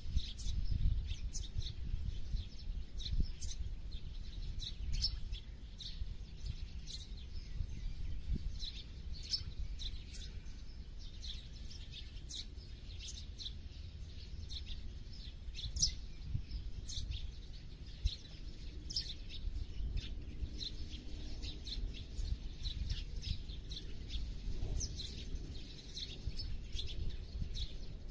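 Small songbirds chirping in the countryside: many short, high calls, one after another throughout, over a steady low rumble.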